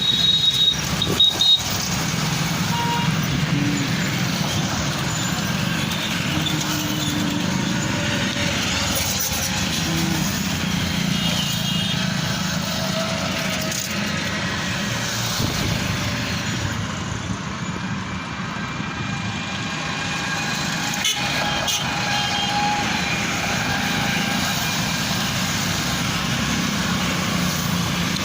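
Steady road traffic noise, a continuous rumble of passing vehicles, with short faint tones scattered through it.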